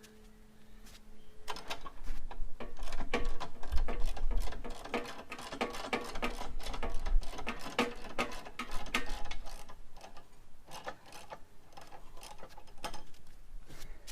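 Rapid, irregular metallic clicking and clunking that starts about a second and a half in and eases off near the end, as the motorcycle is lowered off its lift stand.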